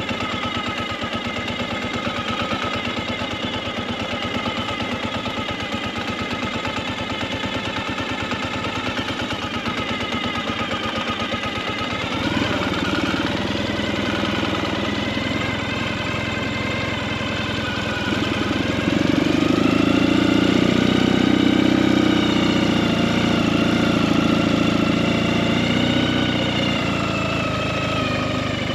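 Ural sidecar motorcycle's flat-twin engine running at low speed with a steady, even beat. It gets louder about twelve seconds in, and again a few seconds later as the throttle opens.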